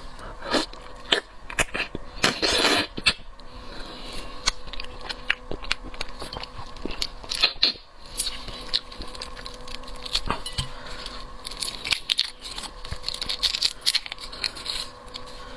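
Close-up eating of shrimp: shells cracking and tearing as they are peeled, with chewing and many small sharp clicks, and a longer rustling crunch about two to three seconds in.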